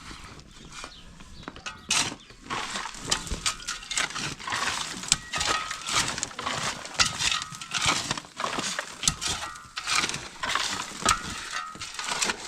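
Irregular knocking and clattering, many sharp hits in quick succession.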